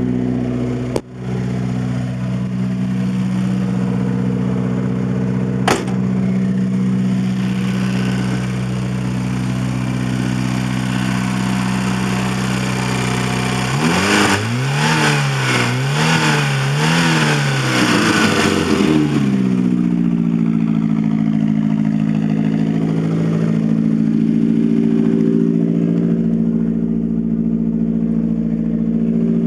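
Porsche 924 Turbo's turbocharged 2.0-litre four-cylinder idling through a 2.5-inch straight-pipe exhaust, freshly cold-started after months of sitting. About halfway through it is revved in three or four quick blips, then settles back to a steady idle.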